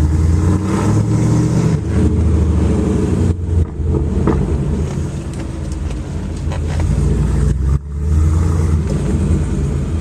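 Mercedes engine running through a new aftermarket exhaust with a deep, throaty note, its level dipping briefly twice as the engine speed changes.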